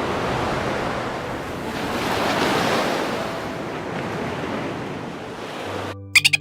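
A steady rushing noise, like surf, that swells about two seconds in and cuts off abruptly near the end.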